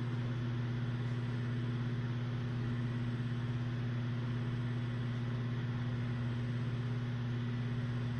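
Steady low mechanical hum, one even tone with a second one an octave above, unchanging throughout.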